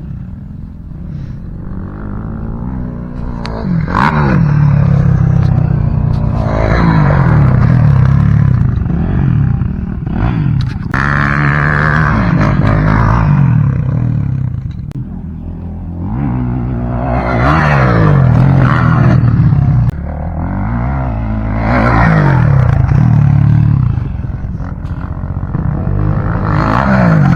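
Dirt bike engine being ridden hard: the revs climb and drop again and again as the rider accelerates, shifts and backs off.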